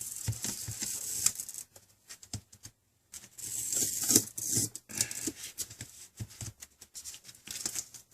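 Crackling, scratchy noise of the glass and adhesive on a Samsung Galaxy Tab being worked loose by hand, in two stretches with scattered clicks between.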